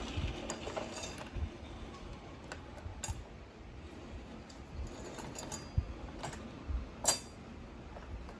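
Irregular light metallic clinks and taps, like small metal parts being handled. The sharpest click comes about seven seconds in.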